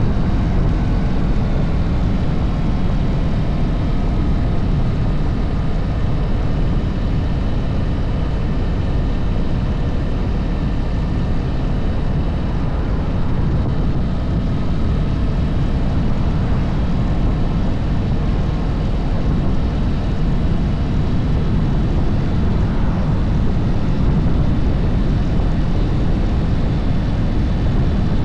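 Harley-Davidson motorcycle under way: a steady loud rush and rumble, with the engine's pitch drifting slowly up and down.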